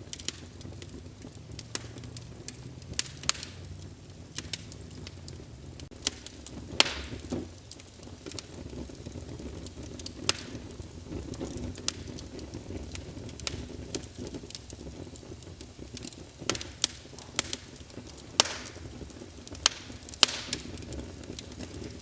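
Wood fire in a fireplace crackling, with sharp pops and snaps every second or so over a low steady rumble of flames; a handful of pops are much louder than the rest.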